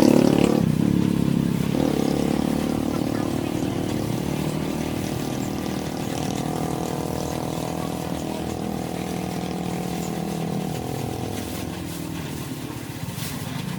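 An engine running steadily, its pitch shifting a little now and then, loudest at the start and easing off slightly.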